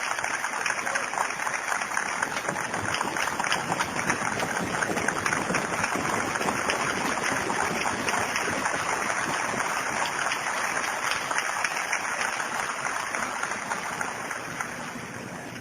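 Steady rain falling, a dense even patter that eases slightly near the end.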